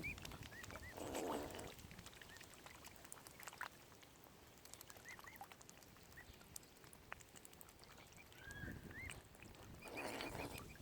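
Mute swan cygnets peeping faintly: a scattering of short, high calls spaced out irregularly. Two brief swishes come about a second in and near the end.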